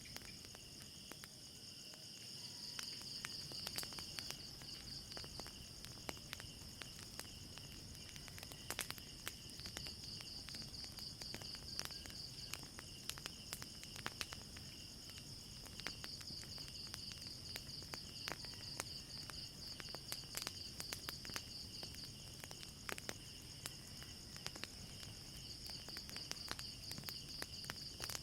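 Crickets chirring steadily through the night, swelling and fading every few seconds, with a fire crackling in frequent sharp snaps and pops.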